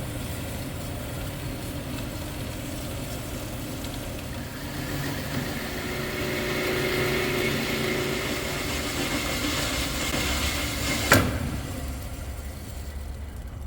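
Power saw cutting through steel box section, a steady machine run with a faint whine that grows louder midway, and a single sharp click a couple of seconds before the end.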